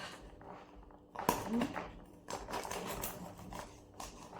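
A kitchen knife knocking and scraping with utensils and a cutting surface while goat meat is cut, with one sharp knock about a second in, then a run of irregular clicks and scrapes.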